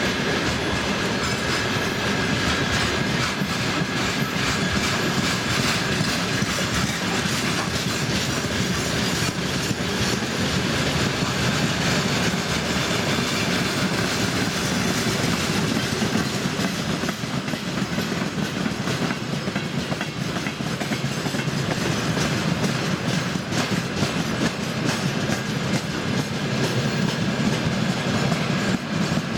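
Freight train of gondola and tank wagons rolling past close by: a steady rumble and rattle of the wagons, with rapid clickety-clack of wheels over the rail joints and a faint steady high whine.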